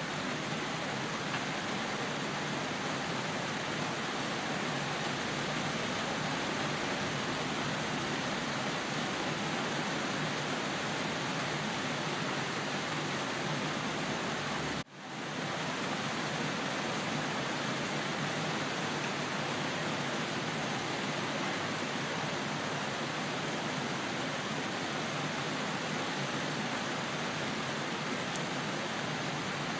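Steady rain falling in an even hiss. About halfway through it cuts out for a split second and fades straight back in.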